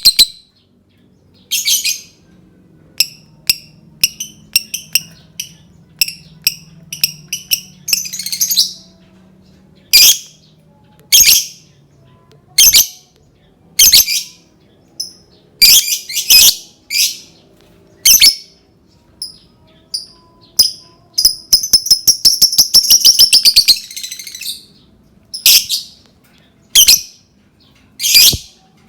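Lovebird calling in short, sharp, high-pitched shrieks, singly and in quick clusters, with quiet gaps between. About two-thirds of the way through it breaks into a long run of rapid chattering.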